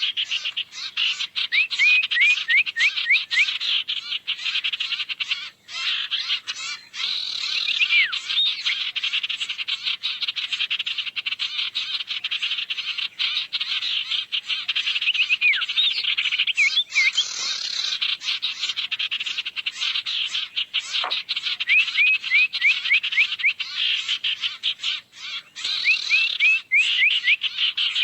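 Recorded sirtu lure call: a dense chorus of rapid chirping and clicking bird calls, broken every few seconds by quick runs of short hooked whistles.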